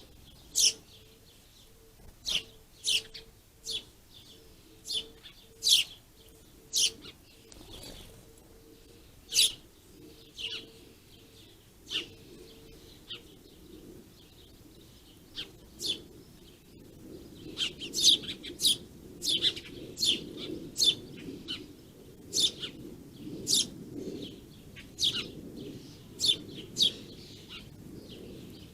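Small songbirds chirping in short, sharp single notes, spaced a second or more apart at first, then coming thicker and faster from a little past halfway.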